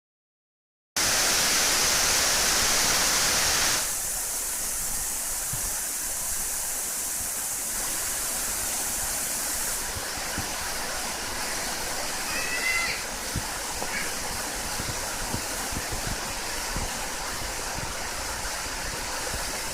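Ginga Falls, a waterfall, rushing with a steady noise of falling water. It is louder for the first few seconds, then a little softer and even.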